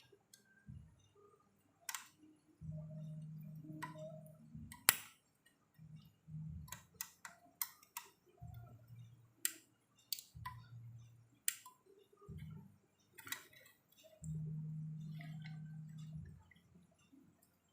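Scattered sharp clicks and taps, mixed with several short stretches of low hum, each lasting up to about two seconds.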